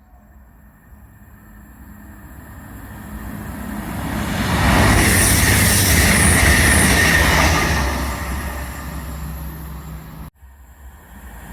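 A train approaching and passing, the rumble building to its loudest about five to seven seconds in and then fading. The sound cuts off abruptly near the end, and a new rumble begins to rise.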